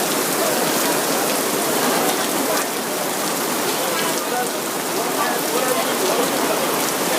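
Steady rain falling and pattering on surfaces, an even hiss of many drops with no pauses.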